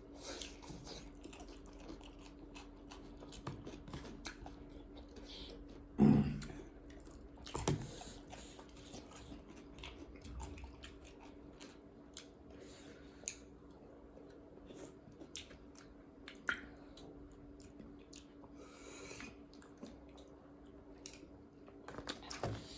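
Close-up chewing and eating: soft crunches, squishes and small clicks of food and utensils over a faint steady hum, with a louder brief knock about six seconds in.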